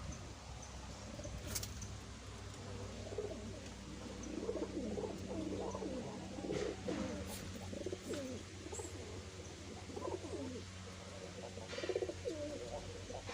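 Doves cooing: repeated low, wavering coos from several birds overlapping, starting a couple of seconds in, over a steady low hum and a few sharp clicks.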